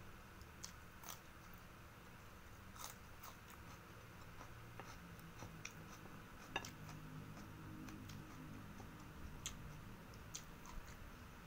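Quiet chewing of fried rice and cucumber, with scattered light clicks of a wooden spoon against a ceramic plate; the sharpest click comes a little past halfway.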